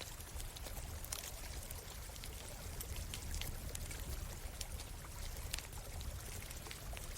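Stream water running steadily, with a campfire crackling in many sharp, irregular pops over it.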